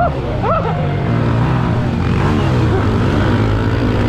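Pit bike engine heard on board, revving up and down with the throttle, its pitch rising and falling several times.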